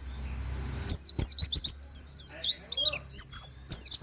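White-eye (pleci) singing: a fast, quieter trill for about the first second, then a rapid run of sharp, high chirps sweeping up and down, the canary-like 'wit wit' notes of its song.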